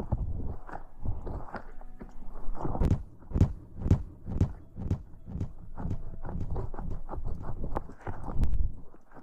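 Close-miked ASMR rustling: soft rubbing and brushing strokes against the microphone, with light clicks, the strongest at about two a second in the middle.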